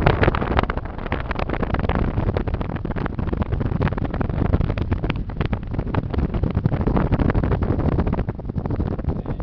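Wind buffeting the microphone of a moving car, over the car's low road noise; it flutters unevenly and eases slightly near the end.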